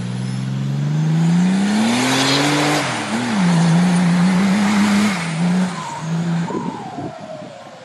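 An off-road 4x4's engine revving, climbing steadily in pitch for about three seconds, then dropping back and holding an uneven, wavering note before letting off about six seconds in. A rushing hiss is loudest at the top of the rev.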